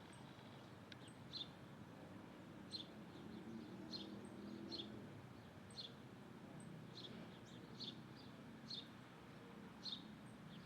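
Faint, short, high bird chirps repeated at irregular intervals, about one a second, over a low background hum.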